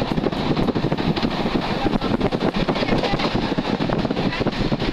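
Moving passenger train heard from an open window: a steady, dense rumble and rattle of the wheels on the track, with wind buffeting the microphone.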